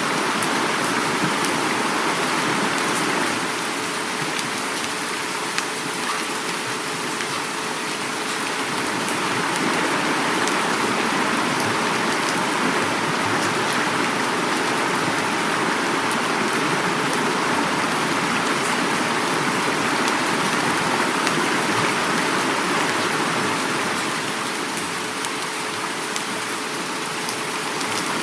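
Heavy rain falling steadily, with many fine drop patters, mixed with flowing river water; the loudness swells and eases slightly a few times.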